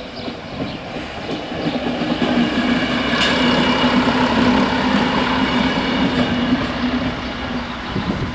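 A single diesel regional railcar passes over a level crossing. Its engine hum and wheel noise build from about two seconds in, are loudest mid-way as it crosses, and fade as it moves off.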